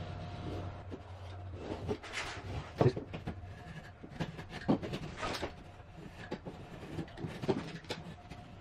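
Knife and pry bar working at wooden baseboards: irregular knocks, clicks and scraping.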